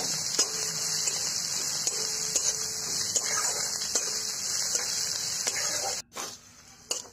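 Onions and ginger-garlic paste sizzling in hot oil in a kadai, stirred with a spatula that clicks and scrapes against the pan. The sizzle cuts off abruptly about six seconds in.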